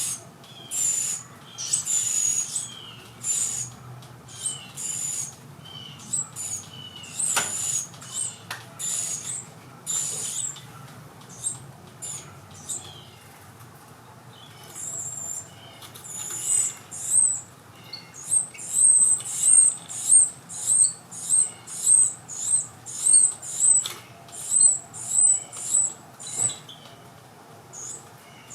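Carolina wren nestlings in the nest giving high, thin chirps. These come irregularly at first, with short rustling bursts, and settle into a fast run of about two a second in the second half.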